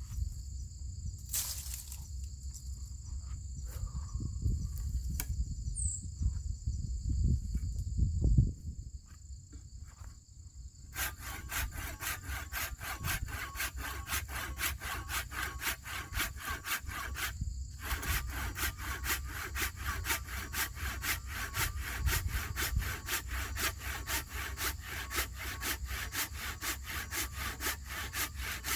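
Hand saw cutting through wood in steady, even back-and-forth strokes, starting about 11 seconds in, with a brief pause near the middle. Before the sawing there is a low rumble that peaks about 8 seconds in, under a steady high insect buzz.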